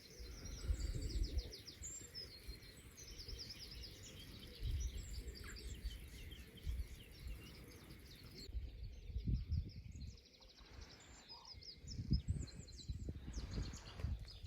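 Small birds singing and chirping in quick runs of notes, busiest in the first half and thinning out later. Low rumble and a few soft bumps lie beneath.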